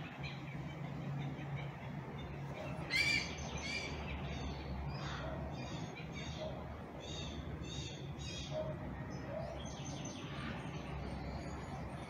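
A bird calling: one loud, harsh call about three seconds in, then a run of evenly spaced calls, about two a second, over the next few seconds, and a few fainter calls near the end.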